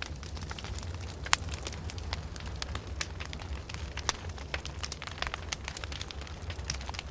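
Open fire crackling, with a dense run of irregular sharp pops and snaps, the loudest about a second in, over a steady low rumble.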